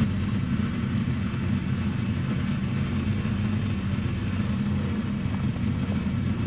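Four-wheel-drive truck engine running steadily at a low, even pitch.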